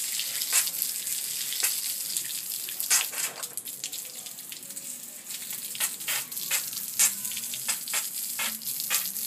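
Water hissing steadily with quick, irregular sharp splashes, a small bird bathing in the water.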